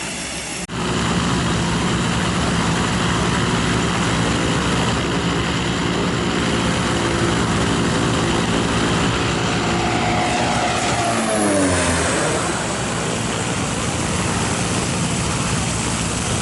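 Cessna 208 Caravan's turboprop engine and propeller flying past: a loud, steady drone with a hum of several tones that starts abruptly, then drops sharply in pitch about eleven seconds in as the aircraft goes by.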